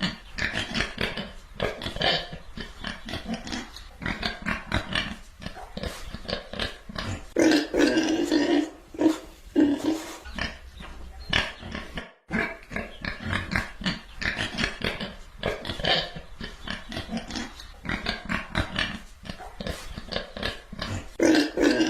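Animal calls in quick succession, one short call after another, with a brief gap about halfway through and louder, deeper calls near the middle and the end.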